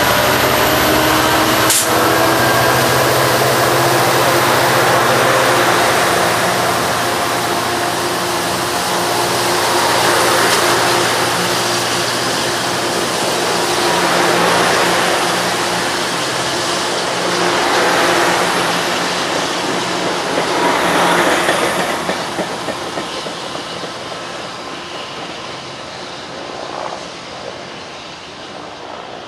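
Amtrak passenger train passing close by: the diesel locomotive's engine goes by, then the bilevel cars roll past with a loud wheel-on-rail rumble that swells every few seconds as each car's wheels go by. There is a sharp knock about two seconds in. The sound fades over the last several seconds as the train moves away.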